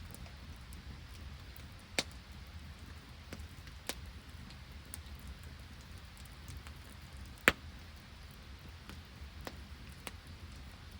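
Wood campfire crackling in sleet and rain, with a few sharp pops from the burning wood, the loudest about seven seconds in, over a steady low rumble.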